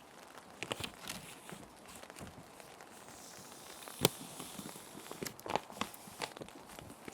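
Plastic sheet protectors crinkling and rustling as paper sheets are slid in and handled, with scattered sharp crackles, the loudest about four seconds in. A soft, steady rain sound runs underneath.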